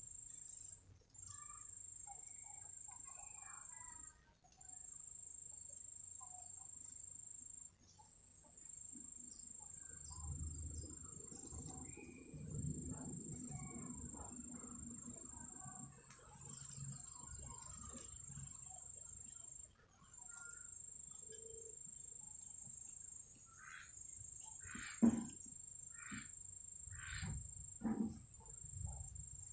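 An insect's steady high-pitched trill that breaks off briefly a few times, with scattered faint knocks and a couple of louder taps near the end.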